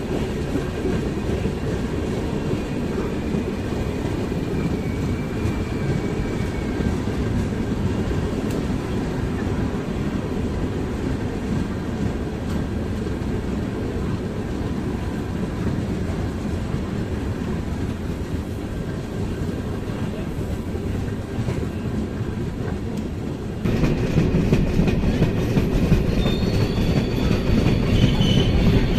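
Kovai Superfast Express passenger coach running on the rails, heard from its open doorway: a steady rumble of wheels on track with clickety-clack. About 24 seconds in it becomes suddenly louder, and thin high wheel squeals come in near the end.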